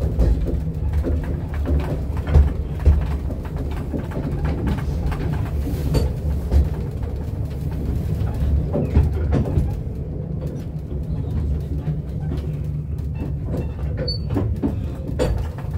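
Narrow-gauge railway carriage rolling slowly along the track: a steady low rumble with scattered clicks and knocks from the wheels running over the rails.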